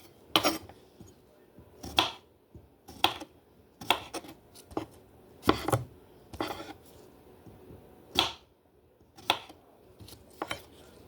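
Knife slicing mini cucumbers: about a dozen sharp, uneven chopping strikes, roughly one a second.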